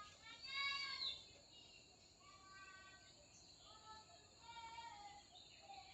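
Faint birds calling in a series of short, clear calls with brief gaps between them.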